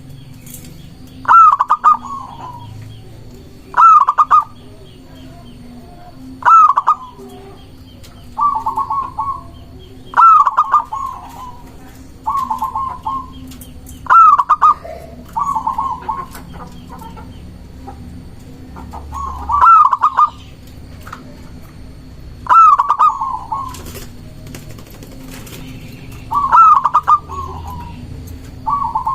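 Zebra dove (perkutut) singing: about a dozen loud, quick cooing phrases, each about a second long, repeated every two to four seconds. Faint chirps of other small birds sound between them.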